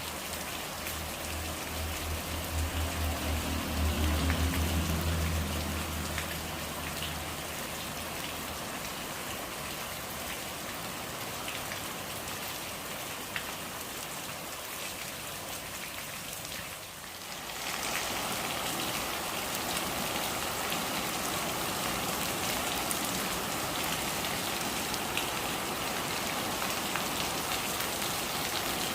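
Steady rain falling on surfaces, with a low rumble under it for the first several seconds. About 17 s in the rain briefly dips, then goes on louder and brighter.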